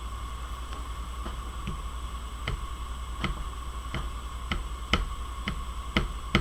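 A series of sharp, light clicks, about one every half second to second, getting louder toward the end, over a steady electrical hum with a faint whine.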